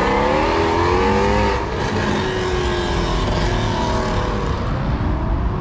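A car engine revving and accelerating away: its note climbs over the first second or so, eases back, then climbs again near the end.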